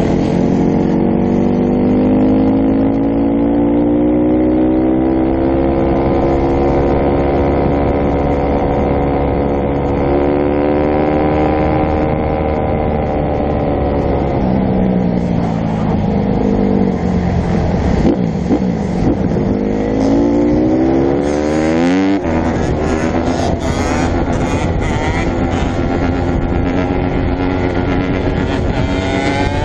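Dirt bike engine running on the move. Its pitch climbs slowly for about ten seconds, drops, climbs again, then changes suddenly about twenty-two seconds in and settles to a steadier, rougher note.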